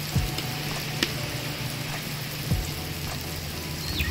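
Onions, green chillies and banana peppers sizzling steadily in butter on a flat dosa griddle, with grated ginger freshly scattered on top. A few soft knocks are heard.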